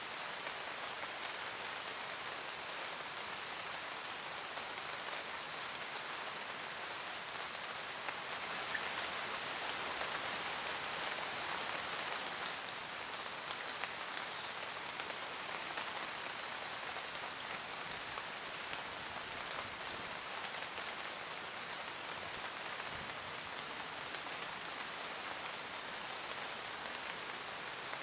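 Steady rain falling in a forest: a continuous hiss of raindrops on leaves with scattered individual drop ticks, swelling a little about a third of the way in.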